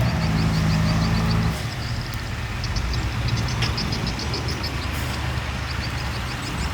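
Heavy diesel engine of an earthmoving machine running under load; its note drops and eases about one and a half seconds in, leaving a steady low rumble with a rapid high ticking over it.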